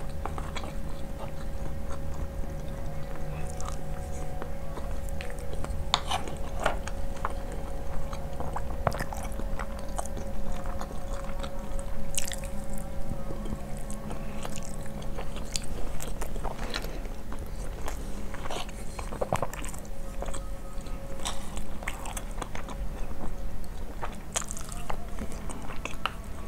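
Close-miked eating sounds: chewing and biting on spiced basmati rice and spoonfuls of yogurt, with scattered wet clicks and smacks. A steady low hum runs underneath.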